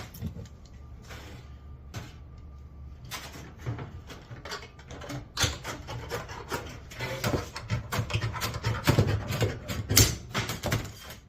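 Bench snips cutting 24-gauge sheet metal: an uneven run of short crunching snips and metal scraping, getting busier and louder from about three seconds in.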